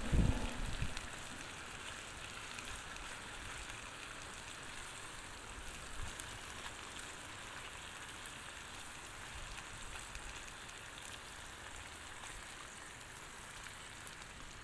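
Bacon, sausage patties and frozen hash browns frying on a Blackstone flat-top griddle over low heat: a steady soft sizzle with fine crackles. A brief low thump right at the start.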